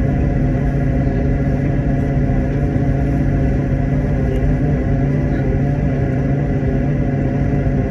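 Steady drone of an aircraft heard from inside the cabin: a low rumble of engine and air noise with several steady humming tones held throughout.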